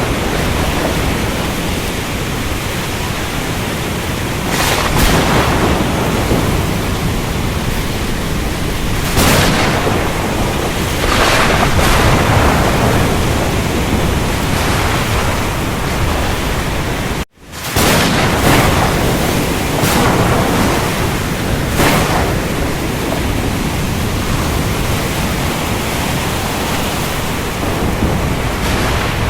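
Ocean storm: a steady rush of rain and surf, with louder swells every few seconds as waves break. About two-thirds of the way through, the sound cuts out for a split second and comes straight back.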